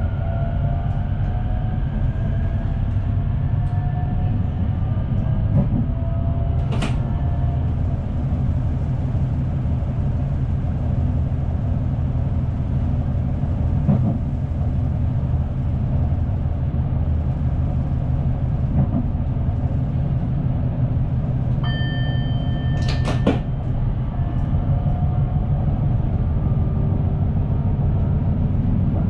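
Running noise of an NS SNG electric multiple unit heard from the driver's cab: a steady low rumble of the train on the track, with a faint gliding whine in the first several seconds. There are two sharp clicks, and a short steady beep about three-quarters of the way through.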